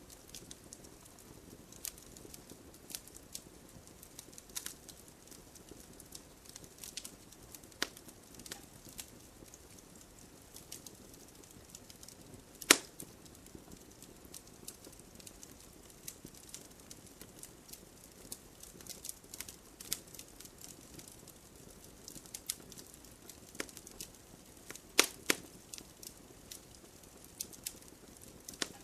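Campfire of burning wood crackling: irregular sharp pops and snaps over a low steady hiss, with louder pops about halfway through and a pair near the end.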